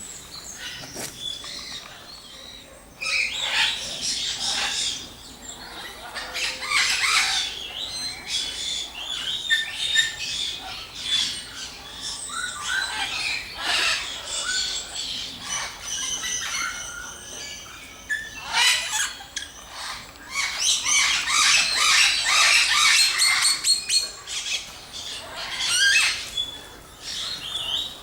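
Many tropical aviary birds chirping, trilling and squawking at once, overlapping calls in irregular loud bursts, busiest about three quarters of the way through.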